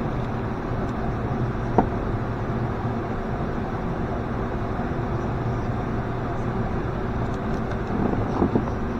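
A car engine idling steadily, with a sharp knock about two seconds in and a few light clunks near the end.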